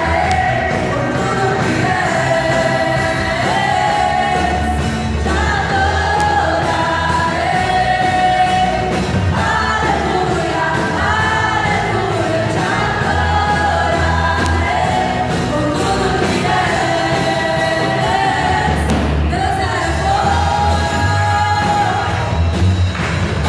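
Church worship band playing gospel music with voices singing over a steady bass line.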